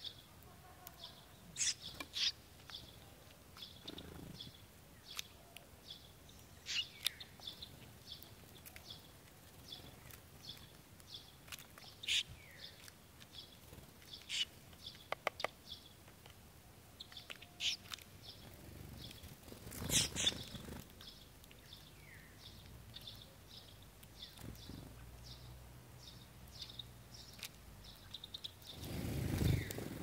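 Small birds chirping at a garden seed feeder: a steady run of short high chirps, about two a second, with louder single calls now and then. Two brief bursts of low rushing noise come about two-thirds of the way in and near the end.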